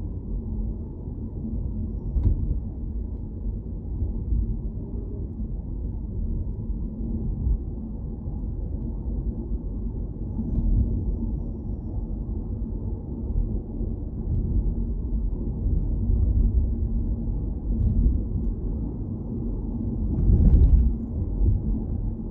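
Low, steady rumble of a car being driven, road and engine noise as heard from inside the vehicle. It swells louder briefly about 20 seconds in.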